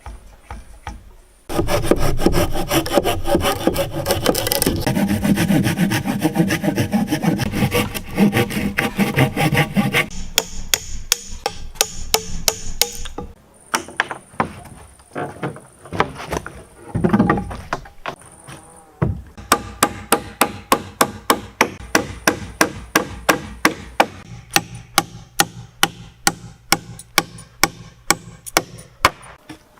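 Hand saw cutting wood in rapid back-and-forth strokes, then a pause, then a steadier run of about four strokes a second.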